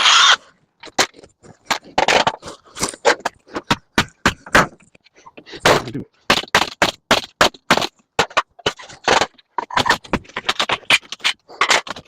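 Scrap being pried and pulled apart by hand: a busy, irregular run of sharp metal clanks, clicks and scrapes as a metal part is worked loose from plastic and wood.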